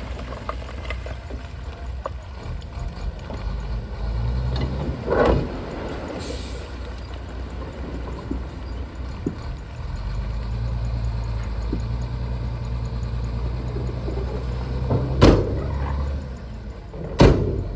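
Shantui bulldozer's diesel engine running at work, its low drone rising and falling as the load changes. Three loud sharp knocks cut through it, about 5, 15 and 17 seconds in.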